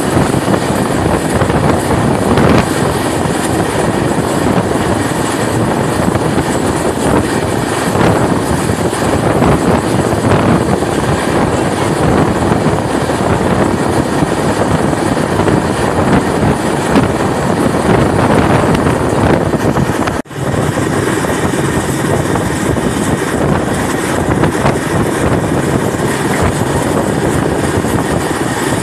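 A moving passenger train running on the rails, heard from an open door or window: a steady rumble and rattle of the wheels and carriage with wind buffeting the microphone. The sound drops out for an instant about two-thirds of the way through.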